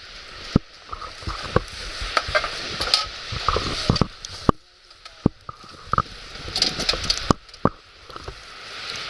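Firewood burning in a campfire, crackling with a steady hiss and irregular sharp pops.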